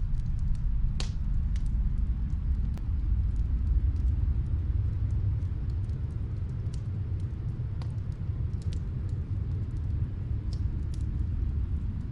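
Snowstorm wind as a steady low rumble, with scattered sharp crackles and pops of a fireplace fire in another room.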